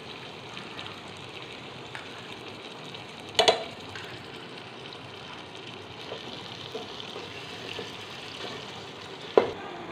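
Tomatoes and spices frying in oil in a steel pot: a steady sizzle, with two sharp knocks, one about three and a half seconds in and one near the end.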